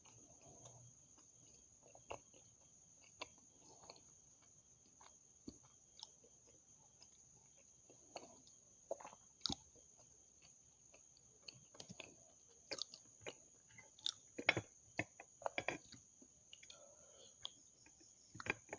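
Close-miked chewing: soft wet mouth sounds and small clicks of someone eating, sparse at first and busier from about halfway through. A steady high-pitched whine runs underneath.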